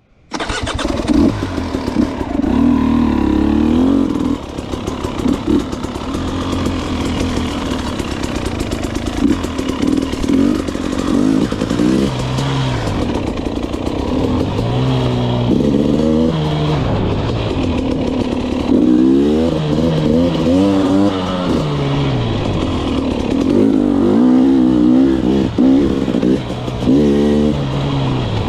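Enduro dirt bike engine under load on a trail ride, the revs rising and falling over and over as the throttle is worked.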